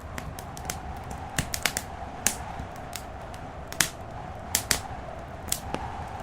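Wood fire in a fireplace crackling: irregular sharp pops, about a dozen, the loudest just before four seconds in, over a steady low rumble.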